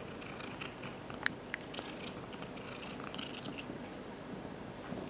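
Domestic cat chewing a treat while purring steadily, with irregular crackly chewing noises and two sharp clicks about a second and a half in.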